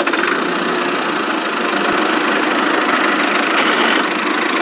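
Tractor engine running steadily with an even chugging rumble, the sound of the vehicle driving along.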